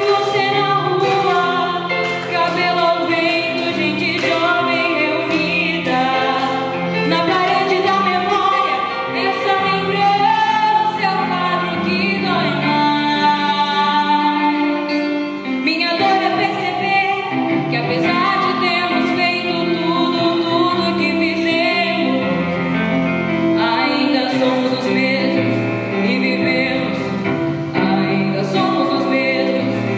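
A woman's voice singing a song in Portuguese, with vibrato on the held notes, over instrumental accompaniment.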